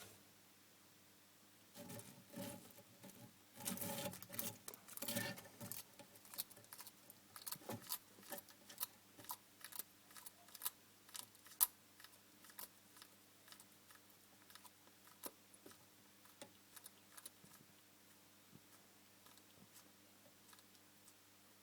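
Bearded dragon crunching a locust in its jaws: a dense run of crackling crunches for a few seconds, then sparser, fainter clicks as it keeps chewing.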